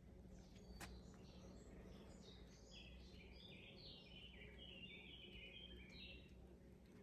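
A songbird singing faintly: a long run of quick, high chirping notes that steps down in pitch and ends about six seconds in. There is a single sharp click early on, over a low background hum.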